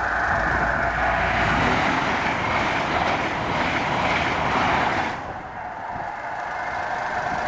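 A train passing close at speed: a steady high whine over a rushing noise that eases off about five seconds in.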